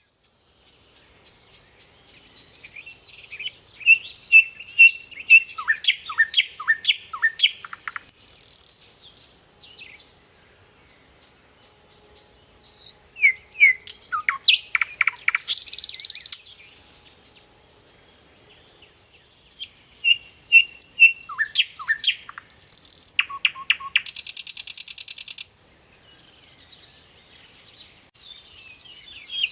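A songbird singing the same phrase three times, with pauses between: a run of quick high chirps and down-slurred whistles, each phrase ending in a harsh, rapid buzzy rattle.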